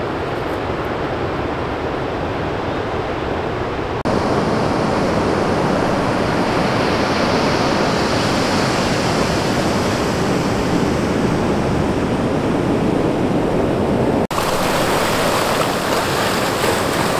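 Steady rushing of ocean surf. It gets louder about four seconds in and breaks off for an instant about fourteen seconds in, where the footage cuts.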